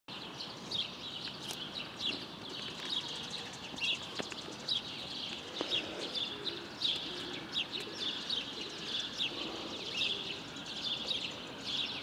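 Small songbirds chirping: many short, high calls from several birds overlapping almost without pause, over faint steady background noise.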